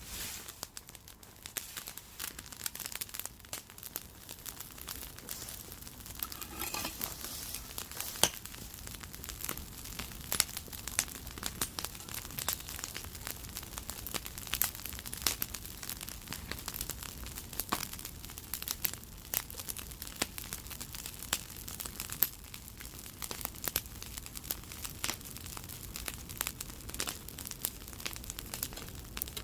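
Wood campfire burning, crackling with irregular sharp pops and snaps.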